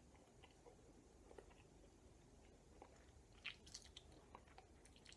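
Near silence with faint clicks of a man chewing a wad of chewing tobacco, and a slightly louder cluster of clicks about three and a half seconds in.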